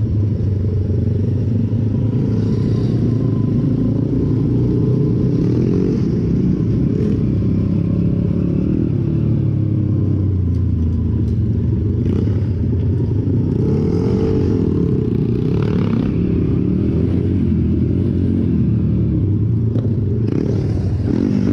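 Pit bike engine running on the move, its pitch rising and falling as the throttle is opened and closed.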